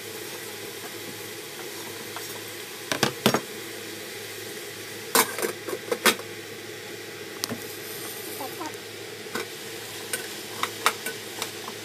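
Carrots and onion sizzling in oil in a stainless steel pot while a spatula stirs them. A few sharp clacks of utensil and lid against the pot, the loudest about three and five to six seconds in.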